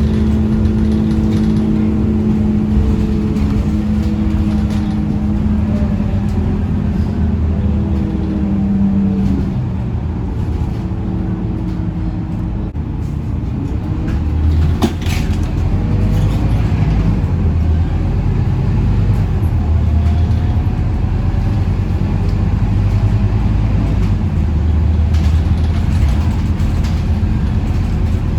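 Interior sound of a Scania K230UB Euro 5 city bus under way: the diesel engine and driveline drone steadily, their pitch rising and falling as the bus speeds up and slows. There is a sharp knock about halfway through.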